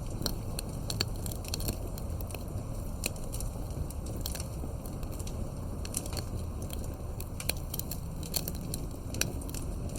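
Fireplace crackling: irregular pops and snaps over a steady low rumble.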